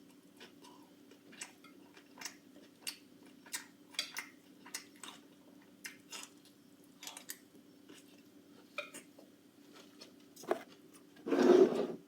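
A person chewing crunchy salad: soft crunches about every half second, with a louder, longer crunching noise near the end.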